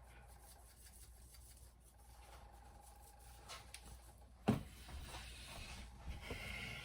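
Faint kitchen handling sounds: light clicks and rubbing, with a single sharp knock about four and a half seconds in, followed by a soft hiss.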